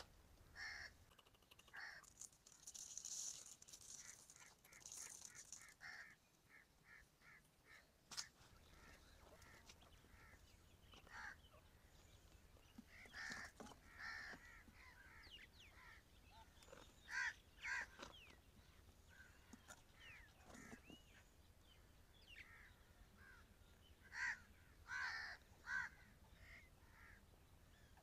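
Faint, scattered bird calls and chirps, with a run of short, evenly repeated chirps about two seconds in and a few louder calls later.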